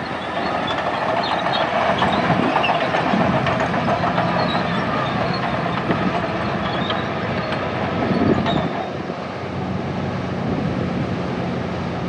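Crawler bulldozer at work: its diesel engine running under load while the steel tracks clank and squeal, getting louder about two seconds in and again briefly near eight seconds.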